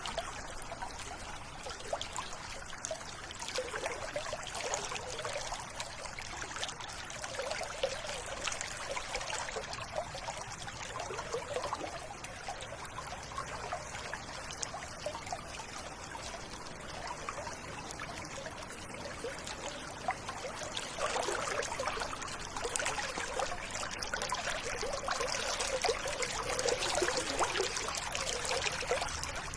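River or stream water running over stones, a continuous babbling and trickling flow that grows somewhat louder about two-thirds of the way through.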